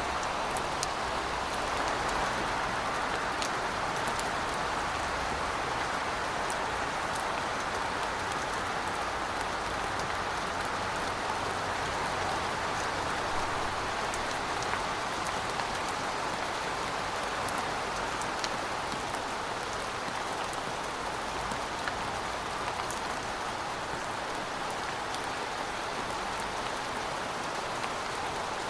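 Steady rain falling, an even hiss with scattered individual drop ticks. The level stays even, with no clear thunder.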